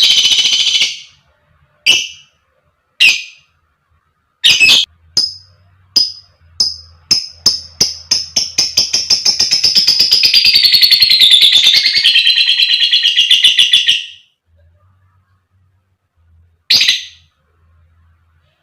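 Lovebird calling: a few separate sharp chirps, then chirps coming faster and faster until they run together into one long, rapid chattering trill lasting several seconds that stops abruptly. One more chirp follows near the end. This is the long 'ngekek' chatter that lovebird keepers prize.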